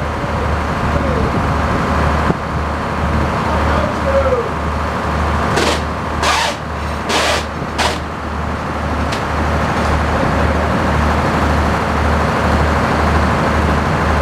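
Tractor engine running steadily to drive the sawmill, with an even low throb about twice a second. A few short hissing bursts come between about six and eight seconds in.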